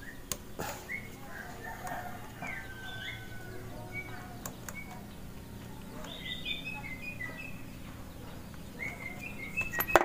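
Small birds chirping repeatedly in short, high calls, with a few sharp clicks of a screwdriver on metal, the clicks mostly near the start.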